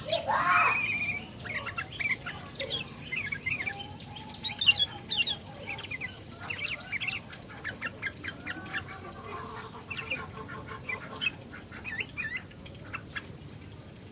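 Sooty-headed bulbul (kutilang) calling and chattering: a busy run of short, quick, sweeping chirps, opening with one louder, harsher call.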